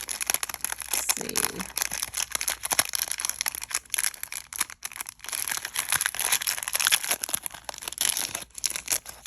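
Small packets of earrings crinkling and rustling as they are handled and opened: a continuous, irregular crackle.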